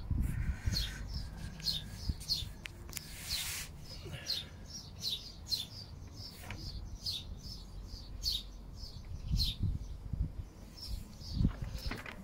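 Small birds chirping repeatedly in short high notes over a low rumble. There is a brief hiss about three seconds in and a couple of dull thumps near the end.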